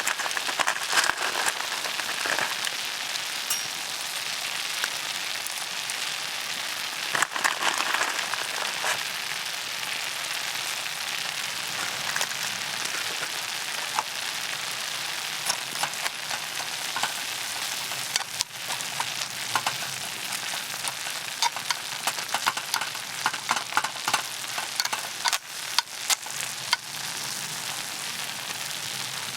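Monjayaki batter sizzling steadily on a hot iron griddle, with scattered sharp clicks and ticks, clustering in the second half.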